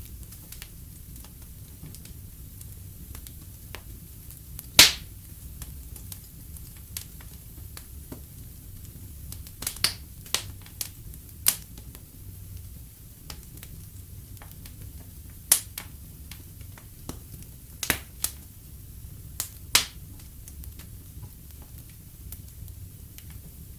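Fire crackling in a fireplace: scattered sharp pops and snaps over a low, steady rumble of flames, the loudest pop about five seconds in.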